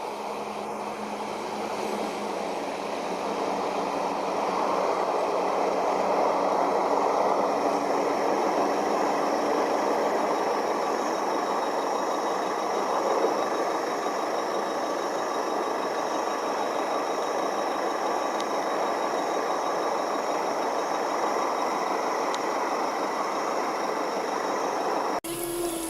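Heavy vehicle engine running steadily under load, a continuous even noise with no breaks.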